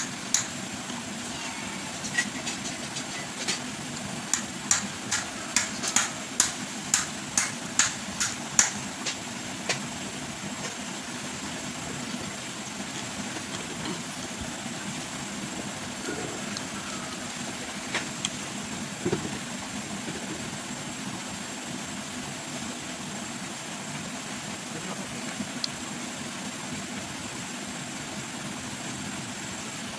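Close-up chewing of crunchy raw vegetables and rice: sharp crunches about two a second for several seconds, then a few scattered crunches, over a steady background hum.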